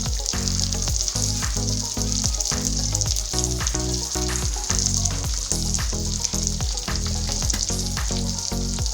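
Onion and tomato masala with spices frying in oil in a pan, sizzling steadily.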